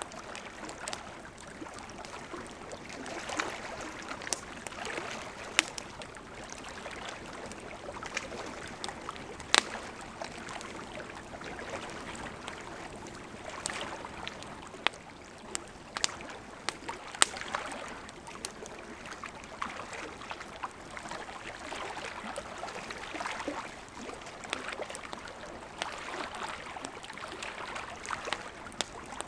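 Campfire of burning wood crackling: a steady hiss of flames with irregular small crackles and sharper pops, the loudest pop about ten seconds in and another around seventeen seconds.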